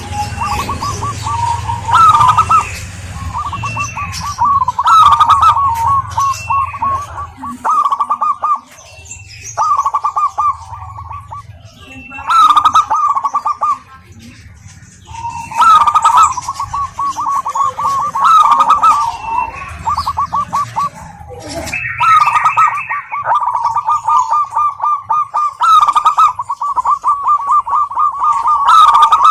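Zebra doves (perkutut) singing: repeated rolling, trilled coos, each phrase a second or two long, coming again and again with short gaps and running almost unbroken near the end. A low hum sits underneath in places.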